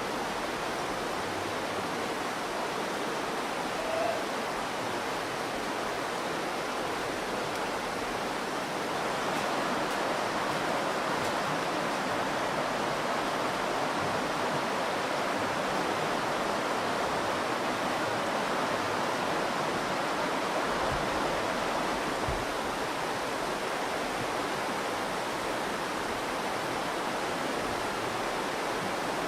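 Virgin River flowing over rocks in a steady rush of water, a little louder from about nine seconds in.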